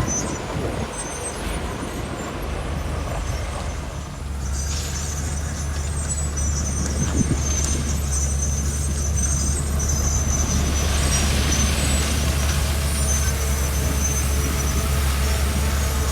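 Heavy earthmoving machine's diesel engine running, a steady low drone that grows stronger about four seconds in.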